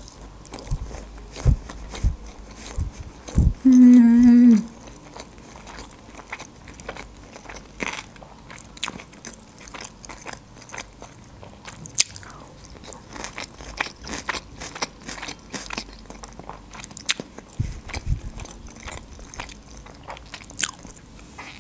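Close-miked chewing of a sushi roll: wet mouth clicks and small crunches. About four seconds in comes a short, loud hummed 'mmm'.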